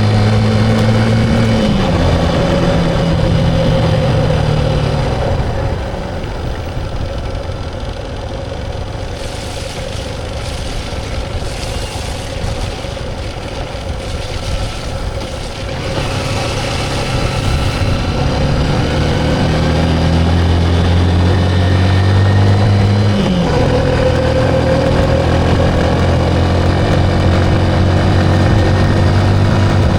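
Motorcycle engine running while riding, with road noise. Its pitch steps down about two seconds in and again about three-quarters of the way through, and in between the engine fades under a quieter rush.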